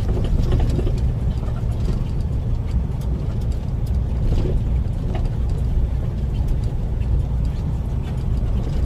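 Heavy truck's engine running, a steady low rumble heard from inside the cab.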